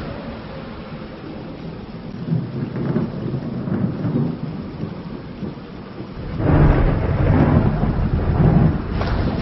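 Thunder rumbling over steady rain, with a louder roll of thunder swelling up about two-thirds of the way through and lasting a few seconds.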